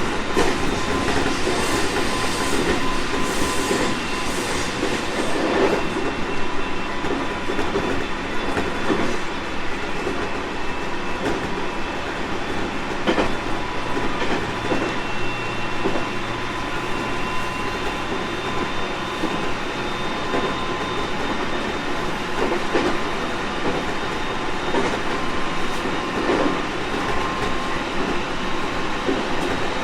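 JR East 701 series 1000-subseries electric train running steadily, heard from inside the car: continuous wheel-and-rail rumble with irregular clacks over rail joints and faint steady whining tones.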